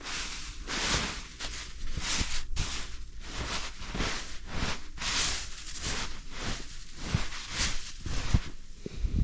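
Crunching and rustling in deep snow, an irregular burst every half second to a second, with a few soft low thuds.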